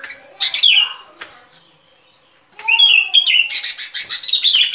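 Bông lau bulbul song played as a trapping lure: a short warbled phrase about half a second in, a brief lull, then a quick run of chattering notes from about two and a half seconds in.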